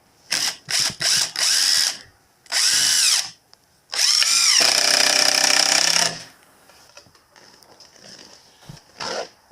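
Power drill running in a series of short trigger bursts, its motor pitch rising and falling with each one, then a steadier run of about two seconds.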